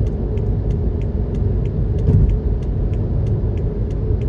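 Steady road and engine rumble inside a moving vehicle, with a turn signal ticking evenly about three times a second as it changes lanes around a closed lane.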